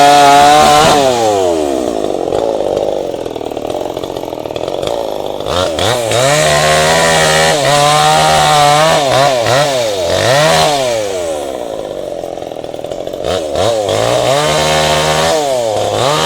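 Tanika MS 5800 two-stroke chainsaw running loud, revved high and then dropping back twice, with the pitch falling and rising as it goes.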